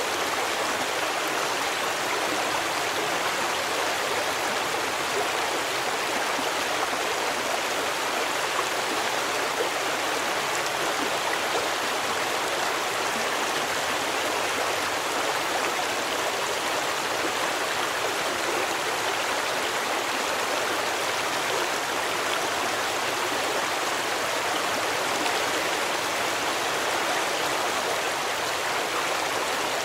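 A stream of running water rushing and splashing steadily, with no breaks or changes.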